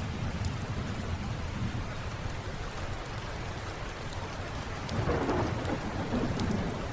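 Steady rain with a low rumble of thunder that swells louder about five seconds in, with scattered sharp crackles over the top.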